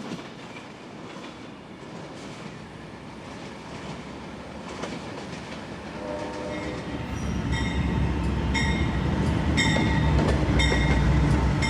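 Amtrak passenger train approaching: after a few seconds of steady rail noise, the locomotive's low diesel rumble builds and grows loud. From about seven seconds in, a bell rings about once a second over it.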